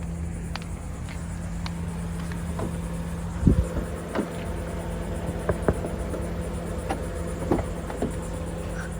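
Steady low hum of a car running while parked, heard from inside, with scattered light clicks and knocks and one louder knock about three and a half seconds in.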